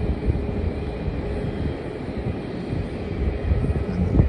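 Jet aircraft engines rumbling steadily, with a faint steady whine.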